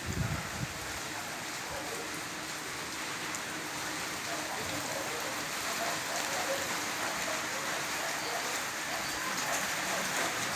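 Steady rain falling and pattering on surfaces, an even hiss, with a brief low thump right at the start.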